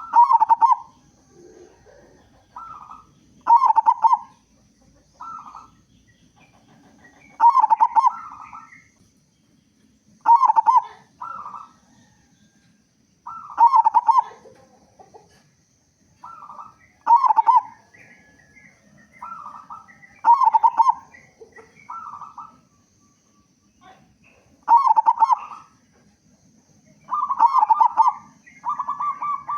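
Zebra dove (perkutut) singing: short phrases of quick staccato notes, each ending in a strong coo, repeated roughly every three seconds.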